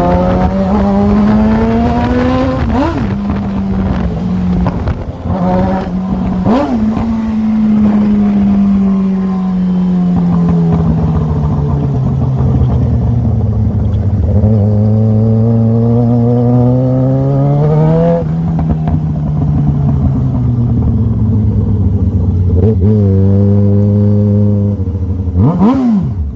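Yamaha XJ6's 600 cc inline-four engine on the move, revving up and easing off. There are gear changes about 3, 7 and 18 seconds in, and two quick throttle blips near the end.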